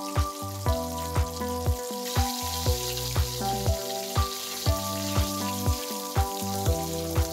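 Chicken wings deep-frying in oil, a steady sizzle, under background music with a steady beat of about two strikes a second.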